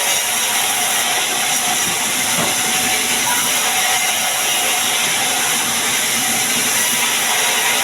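Sawmill machinery running with a steady, loud, even hiss.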